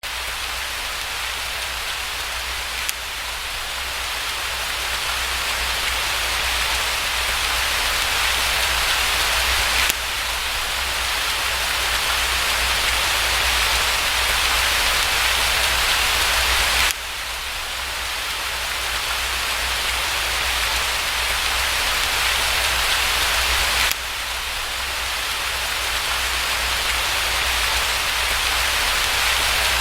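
Steady rain noise with a low rumble underneath, looped: about every seven seconds it cuts to a slightly quieter start and swells again.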